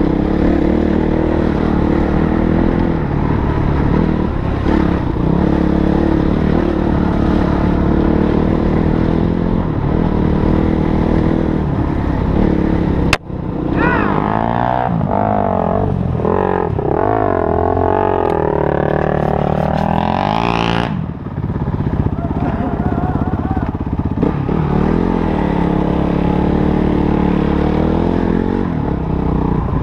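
Motorcycle engine running on the move, its pitch rising and falling with the throttle. About halfway through there is a sharp click, followed by several seconds of higher, swooping revs before it settles back to a lower, steadier note.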